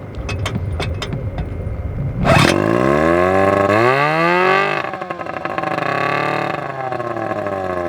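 Small gasoline engine, left sitting for a long while, popping a few times and then catching about two seconds in. It runs on with its speed swinging up and down repeatedly.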